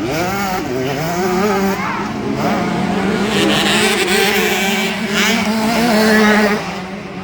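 Several 65cc two-stroke motocross bikes' engines revving, their pitch rising and falling as they accelerate and shift. The sound drops away about six and a half seconds in.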